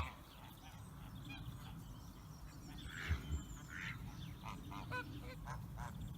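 Farm geese and other poultry honking faintly off and on in the background, a few short calls scattered across a quiet farmyard, over a low steady rumble.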